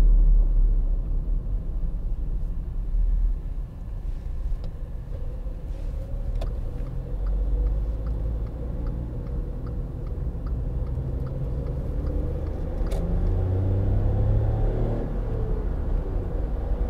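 Volkswagen up! 1.0 three-cylinder engine running with road rumble. It drops to a quieter, steady run about three and a half seconds in, with a light regular ticking about two times a second. Near the end the engine note rises as the car accelerates.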